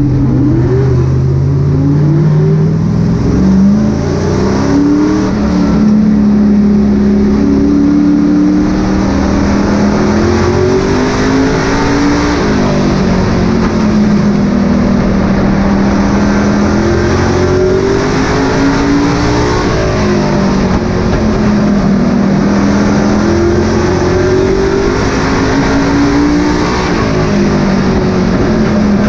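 Super Pro race truck engine at racing speed around a short oval, its pitch rising on the straights and falling off into the turns about every eight seconds, over a constant loud roar.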